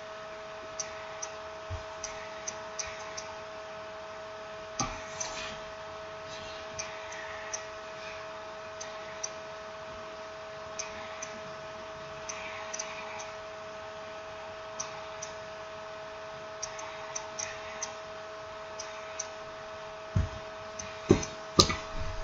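Scattered small clicks and taps of smartphone parts and tools being handled during reassembly, over a steady electrical hum. A few louder knocks come near the end.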